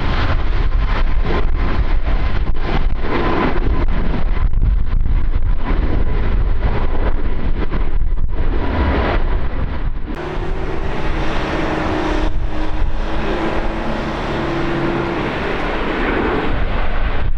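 Strong wind buffeting the microphone over a steady engine hum. From about ten seconds in, a few low steady tones come through the wind.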